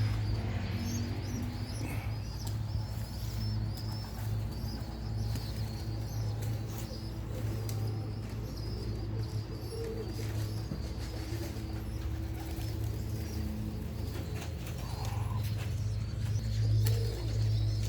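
Racing pigeons cooing around the loft, low and repeated, over a steady faint high-pitched hum.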